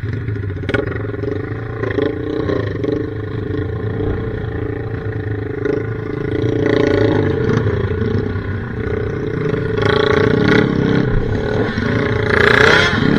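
Dirt bike engine held at high revs, a steady pitched drone that starts suddenly and grows louder near the end.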